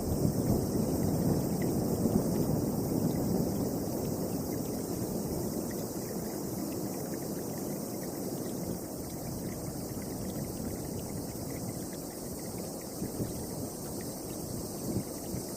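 Storm wind blowing in a low, even rush, loudest at the start and easing gradually, with a steady high hiss above it.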